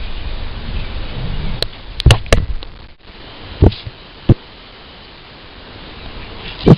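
Several short, sharp knocks and thumps, with a low rumbling noise underneath that cuts off abruptly about three seconds in.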